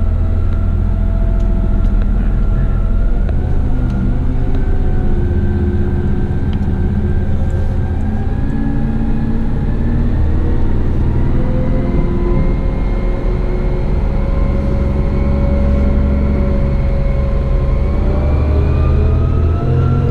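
Heavy rigid truck's diesel engine running under way, its note rising slowly as it gathers speed.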